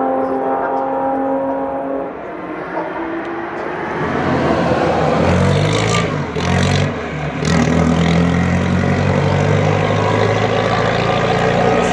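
Historic racing car engines at full throttle. One car's note fades away, then another accelerates hard, its note rising with two quick breaks for upshifts midway, and then holds strong.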